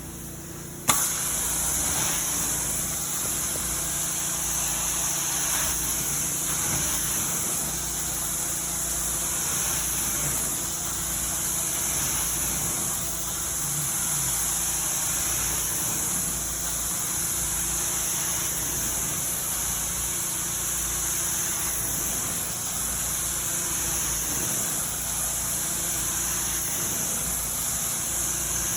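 Carpet vacuum switched on about a second in, then running steadily with a strong high hiss over a low motor hum.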